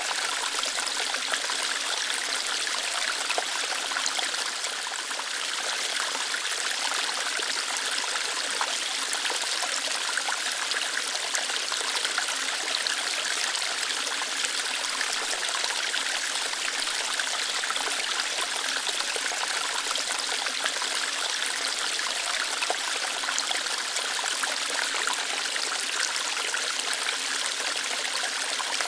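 Small waterfall flowing steadily over rocks, an even splashing hiss with a light trickle, with a brief slight dip in level about five seconds in.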